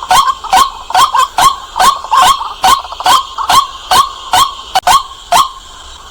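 White-breasted waterhen calling over and over, loud and clear: a steady run of short, harsh notes, two to three a second.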